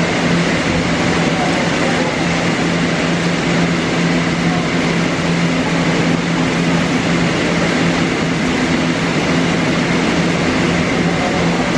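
Odakyu 1000-series electric train standing at the platform. Its equipment gives a steady hum with constant low tones over a broad hiss, with no change in pitch.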